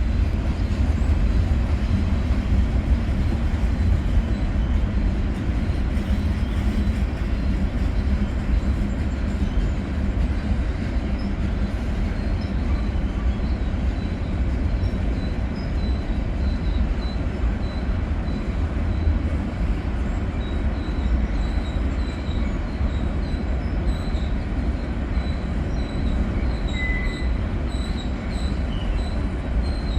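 Freight train rolling past with a steady heavy low rumble. From about a third of the way in, short high-pitched wheel squeals chirp again and again.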